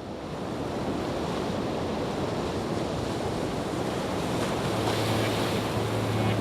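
Steady rushing noise, like wind on a microphone or surf, fading up from silence. A low steady hum comes in about two-thirds of the way through.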